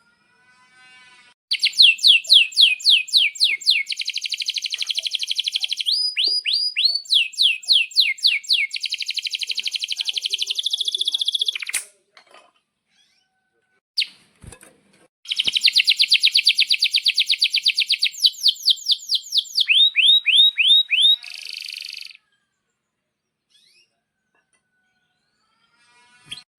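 Male domestic canary singing two long phrases of rapid repeated falling notes and fast trills, with a pause of about three seconds between them.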